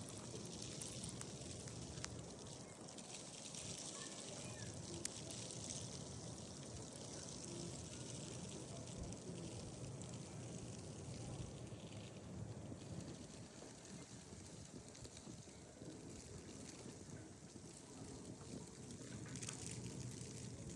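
Steady, fairly quiet hiss of storm weather outdoors, with a couple of faint light clicks, one about two seconds in and one about five seconds in.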